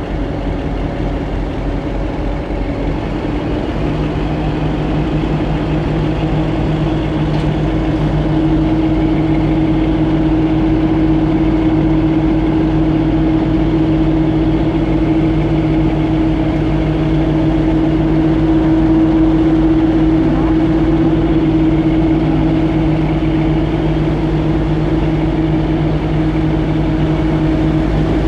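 Boat engine running steadily with a low, even hum that picks up slightly a few seconds in and again about eight seconds in.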